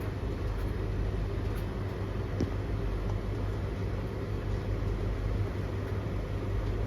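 Three tumble dryers (Blomberg LTK310030W, Russell Hobbs RH3VTD800 and Hoover HLEC8TRGR-80) running together mid-cycle: a steady drum-and-motor hum with a low drone, and one faint tap about two and a half seconds in.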